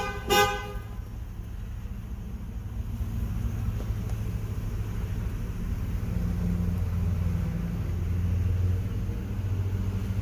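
Muffler-deleted 5.3-litre V8 exhaust of a Chevy Suburban/Tahoe giving a low, steady rumble that swells louder about six seconds in, then eases back. A short car-horn toot sounds right at the start.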